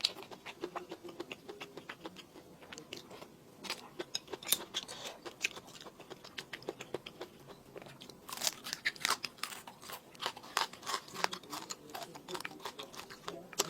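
A person chewing and biting food close to the microphone, with many sharp, irregular crunching clicks, thickest about eight to eleven seconds in.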